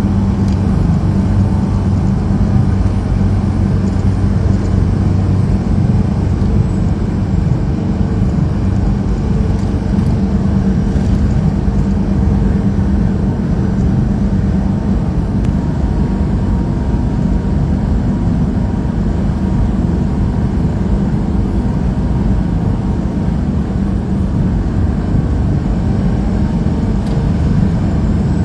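Truck engine running with a steady low drone that does not change.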